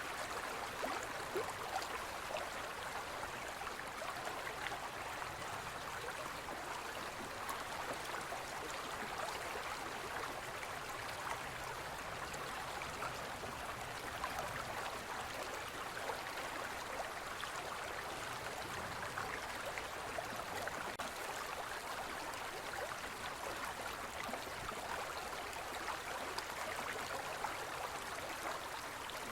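Forest stream flowing steadily over rocks, a constant rushing and gurgling of water.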